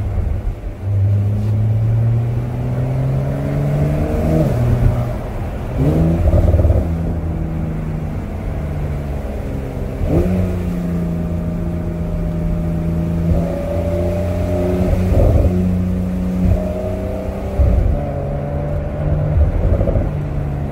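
Porsche 911 (992) Cabriolet's twin-turbocharged flat-six running on the move with the roof down. Its note holds steady for stretches and steps up and down in pitch several times as the car changes speed and gear.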